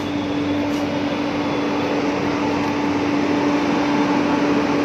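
Steady mechanical noise inside a train coach, with a constant low hum that sets in suddenly at the start and holds steady.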